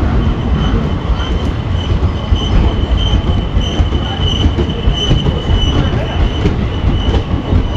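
Indian Railways ICF passenger coaches rushing past close by: a steady, heavy rumble of steel wheels on rail with sharp clacks over rail joints. A high, wavering wheel squeal swells and fades again and again.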